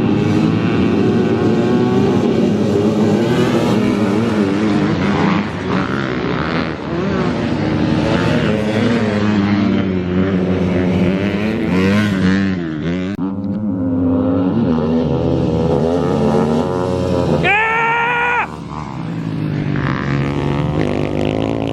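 Several dirt bike engines running and revving, their pitches rising and falling over one another. About three-quarters of the way through, one bike revs up sharply and loudly, then drops off.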